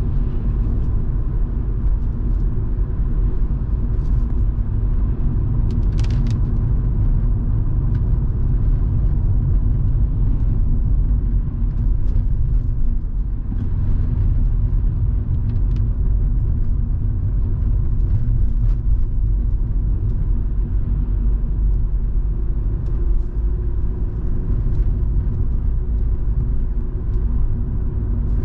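Volvo V70 2.5T's turbocharged five-cylinder engine and road noise at a steady cruise, a continuous low rumble with a few faint ticks over it.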